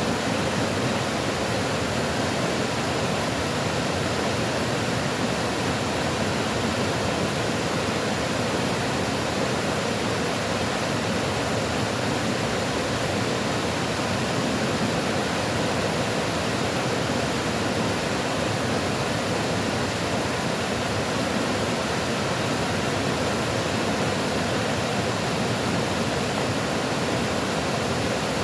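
Running water rushing steadily, an even unbroken hiss with no changes.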